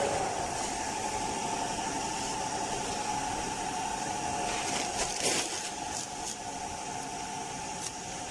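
A steady motor whine over a hiss, with a few short clicks and knocks about five seconds in.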